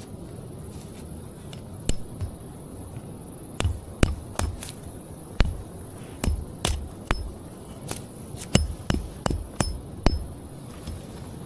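A run of irregular sharp knocks and clinks, some with a brief ringing tone, spaced a fraction of a second to a second apart and starting about two seconds in, over a steady high hiss.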